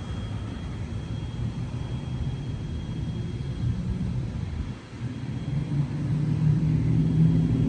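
Vehicle engine running with a low rumble. After a brief dip just before five seconds in, a steadier engine note comes in and grows louder toward the end.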